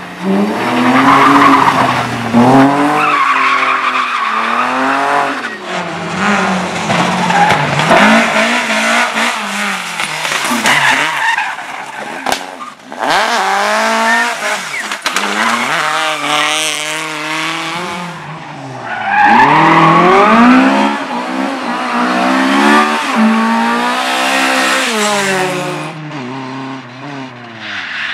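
Race car on a slalom course, its engine revving up and falling back again and again as the driver accelerates, shifts and brakes between the cones, with tyres squealing through the turns.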